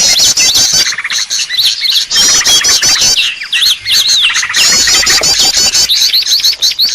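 A dense chorus of small birds chirping and trilling without pause, with quick repeated high notes overlapping one another: a bird-lure (suara pikat) call recording of the kind played to draw birds in.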